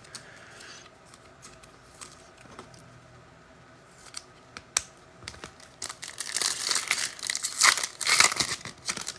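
Foil trading-card pack wrapper crinkling and being torn open. The first part holds only a few light clicks, and the crinkling starts about six seconds in and keeps going.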